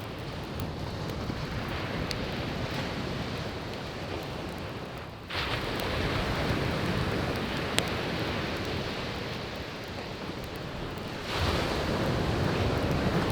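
Sea waves breaking and washing up the beach, a new wave crashing in about five seconds in and another near the end. Burning firewood pops now and then, with one sharp crack a little past halfway.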